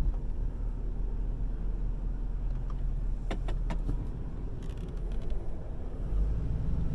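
Car running, heard from inside the cabin as a steady low rumble that swells near the end, with a few sharp clicks about three and a half seconds in.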